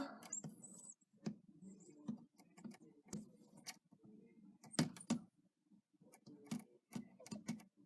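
Faint scattered clicks and taps of a small die-cast model airplane being handled and repositioned on a surface, with a couple of sharper knocks about five seconds in.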